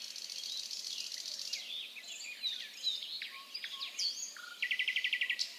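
Forest bird ambience: many birds chirping and whistling at once, with a quick even trill near the end and a high buzzing insect-like pulse in the first second or so.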